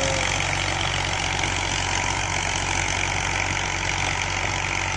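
Massey Ferguson tractor's diesel engine running steadily at an even speed.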